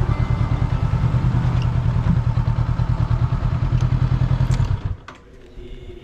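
Motorbike engine running with a fast, even pulse, then cutting off abruptly about five seconds in.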